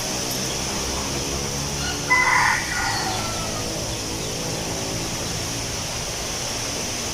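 A rooster crows once, about two seconds in, the call falling away at its end. Under it runs a steady rustling hiss of wind through leaves.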